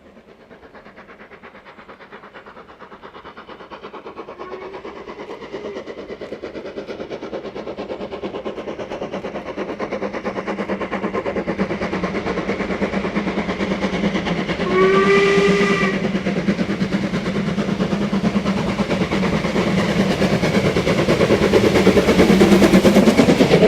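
Steam locomotive approaching with its train, the sound growing steadily louder throughout. About two-thirds of the way through it gives one short steam-whistle blast lasting about a second.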